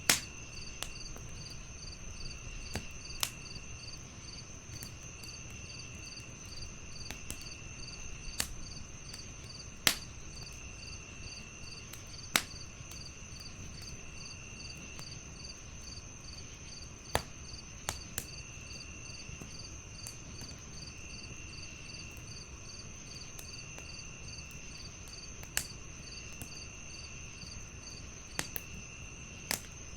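Crickets chirping steadily in several overlapping layers, one trill repeating about every second and a half, over the low rumble of a wood fire. The fire crackles with about a dozen sharp pops at irregular intervals of a few seconds.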